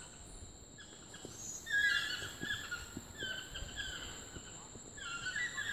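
Toucans calling in three short runs of quick repeated notes, about two, three and a half and five seconds in, over a steady high insect whine.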